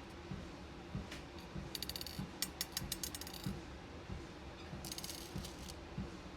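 Beads clicking and rattling against each other in two flurries of quick clicks as they are sorted, over soft footfalls on a walking pad treadmill about every 0.6 s.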